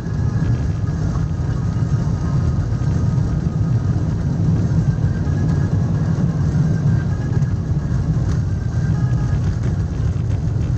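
Steady low rumble of a vehicle in motion, engine and road noise with no change in pace.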